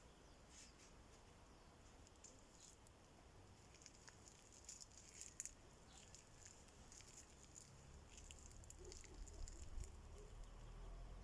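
Near silence, with faint scattered rustles and ticks and a faint low rumble near the end.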